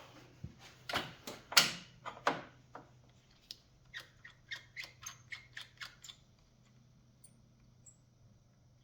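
Metal hand-tool work on a lawn tractor: a few sharp knocks and clanks, then a run of light clicks for about two seconds, then it goes quiet.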